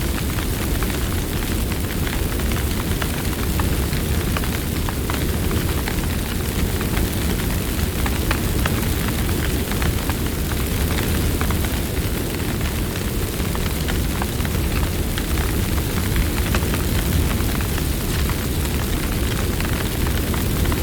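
Wood campfire burning: a steady low rumble of flames with frequent small crackles and pops scattered throughout.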